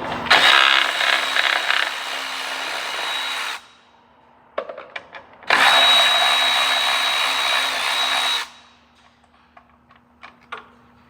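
A handheld power tool runs twice for about three seconds each, with a steady high whine, driving fasteners loose. Small metallic clicks fall between and after the runs.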